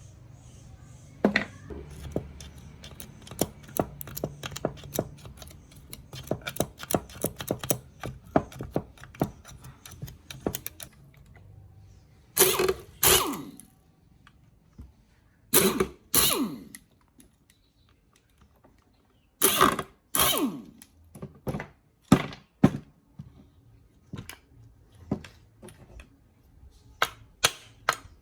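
Hand work on the chainsaw's parts: a long run of quick clicks and light knocks, then three pairs of louder short strokes about 12, 16 and 20 seconds in, and more scattered clicks near the end.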